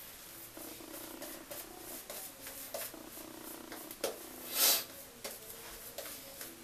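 Badger-hair shaving brush working thick lather, a soft scrubbing of quick short strokes. A brief louder whoosh comes a little after halfway.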